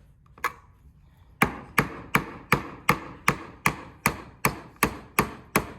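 A hammer driving a nail into wood. There is one light tap, then a steady run of about a dozen sharp blows, roughly three a second.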